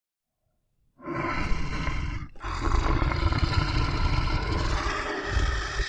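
A big cat roaring, starting about a second in, with a brief break just after two seconds and then continuing.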